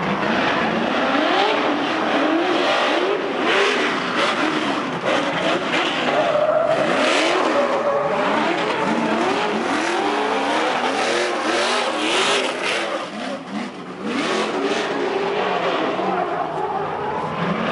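Trophy truck engines revving hard over and over, the pitch climbing and falling every second or so, with loud bursts of noise.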